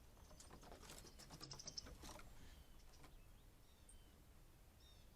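Small birds flying through: a quick faint run of fluttering clicks with high thin chirps over the first two seconds, then a few isolated chirps.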